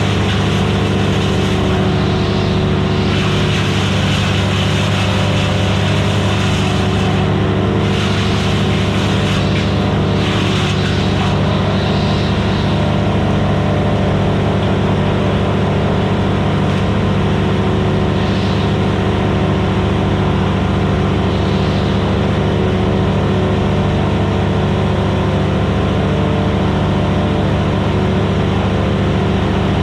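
Vermeer BC1000XL gas wood chipper running steadily at full speed, with a few brief rushes of louder hiss in the first dozen seconds.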